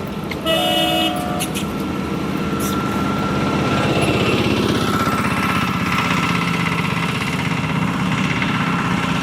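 A motor vehicle's engine running close by, building up over the first few seconds and then holding steady. A brief steady tone sounds about half a second in.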